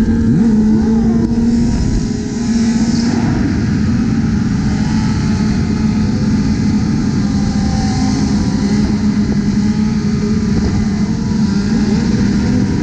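Sportbike engines running at highway speed: a steady engine drone over a heavy low rumble, with other bikes' revs rising and falling near the start and again late on.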